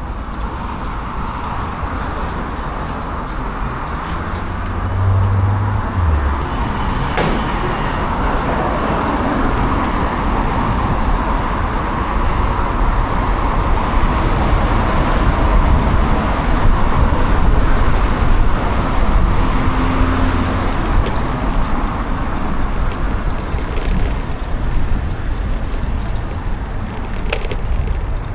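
Kukirin G2 electric scooter ride: steady wind rush over the microphone and road noise from the tyres, getting louder a few seconds in.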